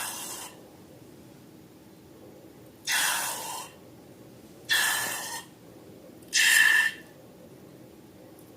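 Four short puffs of air hissing out, about a second and a half apart, the later ones with a squeaky whistle in them.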